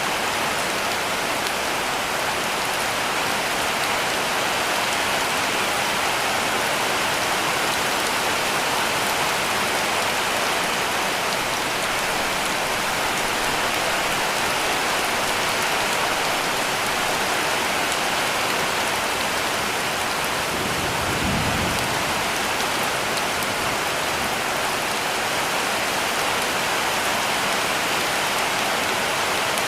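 Heavy rain falling steadily on a cabin roof. A brief low rumble comes about two-thirds of the way through.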